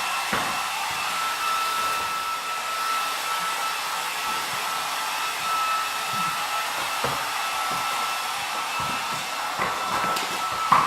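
Handheld electric hair dryer running steadily, a hiss of blowing air with a steady whine. It is being used to blow-dry a horse.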